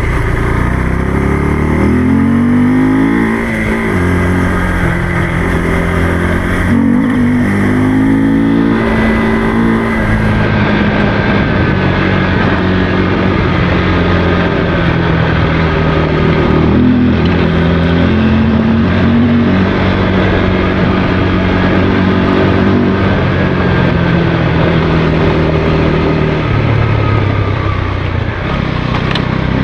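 Motorcycle engine running under way, revving up through the gears with several rising sweeps in pitch, each followed by a steady stretch.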